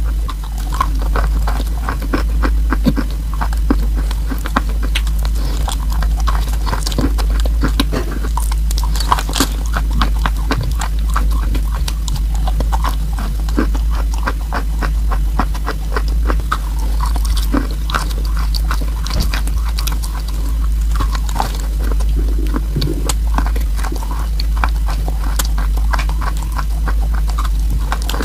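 Close-miked biting and chewing of a block of chalk spread with paste: a dense run of small crunches and wet mouth clicks, over a steady low hum.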